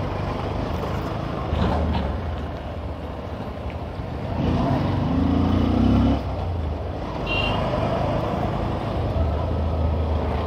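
Bajaj CT 125X's single-cylinder engine running as the motorcycle rides slowly through traffic, its pitch rising as it speeds up about four and a half seconds in. A short high-pitched beep sounds just past the middle.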